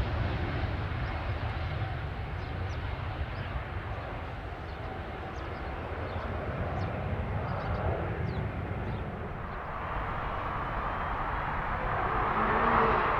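Business jet's engines running: steady jet noise with a deep rumble. Near the end it grows louder and a rising whine comes in.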